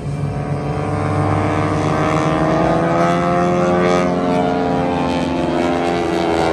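Propeller airplane's engine droning as it passes, growing louder towards the middle, with its pitch slowly rising and then falling.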